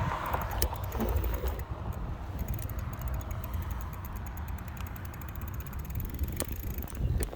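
Wind rumbling on the microphone while riding an electric bike, with a light rapid ticking through the middle and a few sharp clicks.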